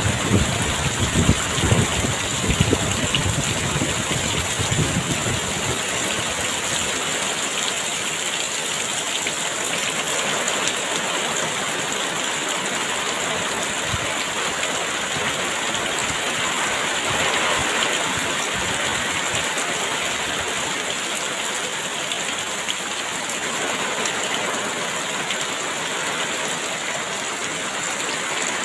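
Heavy rain pouring steadily, a dense even hiss. Wind gusts add a low rumble over the first few seconds, then ease off.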